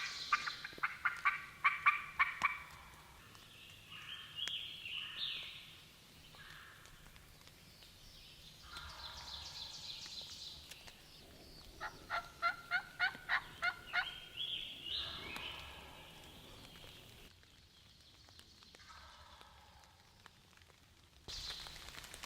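Wild turkey calling close by: a run of sharp, evenly spaced notes, about three or four a second, at the start, and another about twelve seconds in, with shorter rising calls in between.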